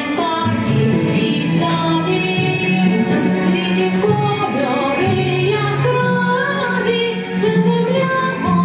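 A song with high voices singing a melody over instrumental backing.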